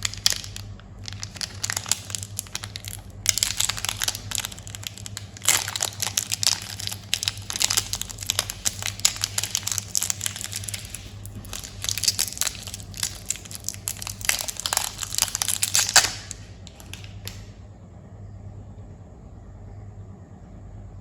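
Candy wrappers crinkling and tearing as they are handled and opened, in dense crackly runs that stop about three-quarters of the way through. A low steady hum runs underneath.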